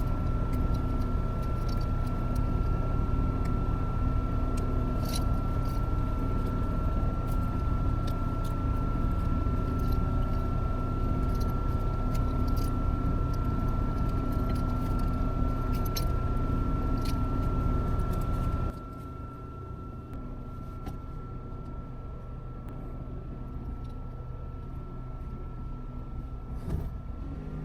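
A heavy machine's engine runs steadily under a thin, steady whine, with scattered clicks. About two-thirds of the way in, the sound drops suddenly to a quieter, steady level.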